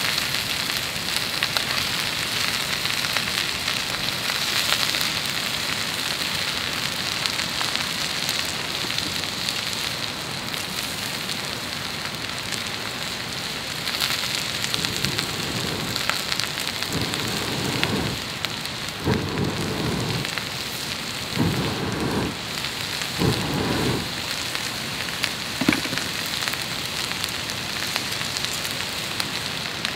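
Food sizzling steadily in a hot pan. Five short, duller sounds about two seconds apart come in the second half.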